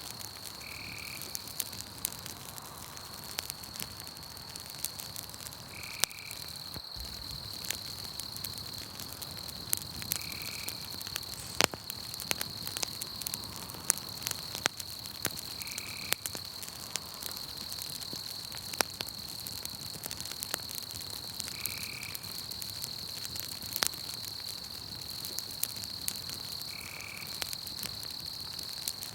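Campfire crackling with scattered sharp pops, over a steady high-pitched insect trill and a short frog call repeated about every five seconds.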